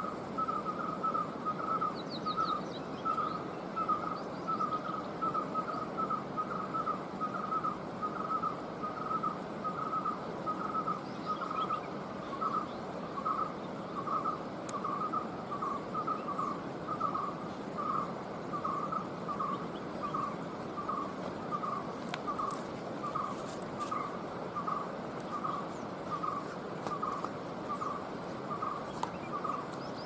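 A bird repeating one short call note over and over, about one and a half times a second, over the steady rush of river water. A thin, high insect buzz runs beneath and stops about two-thirds of the way through.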